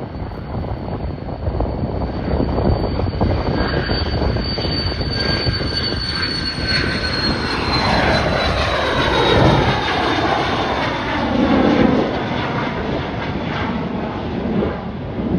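Airliner passing close by, its engine tone falling in pitch as it goes past. Wind buffets the microphone throughout.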